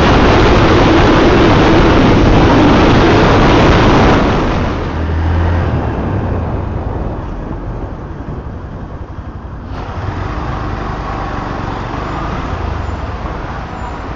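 Riding noise from a Yamaha FZ V3 motorcycle at speed: a loud, even rush of wind and road noise that drops sharply about four seconds in, leaving a quieter rush with a low engine hum.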